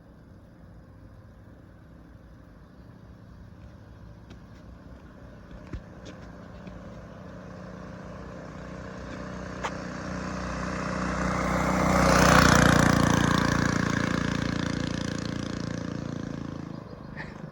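Mini bike with a 79cc Predator single-cylinder engine and torque converter running flat out as it approaches, passes closest about twelve seconds in, and fades away. It is a top-speed run of about 30 mph.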